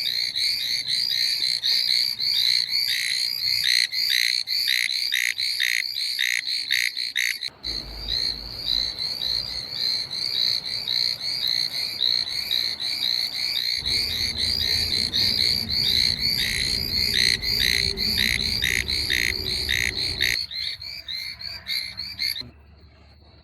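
Chorus of Chinese tree toads (Hyla chinensis) calling: overlapping runs of short, high-pitched notes, several a second. The calling stops shortly before the end, leaving only a faint steady insect trill.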